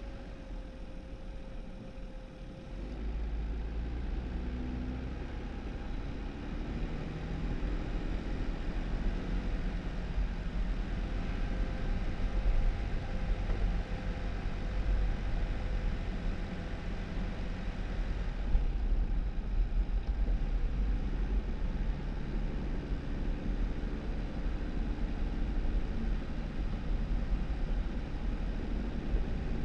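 2018 Jeep Wrangler driving on a snowy road: a steady low engine and tyre rumble, the engine note slowly rising and falling. It gets louder about three seconds in.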